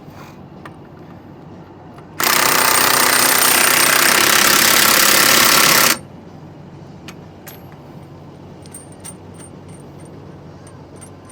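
An impact wrench hammers on a nut for about four seconds, starting and stopping abruptly. Faint light ticks and clicks follow.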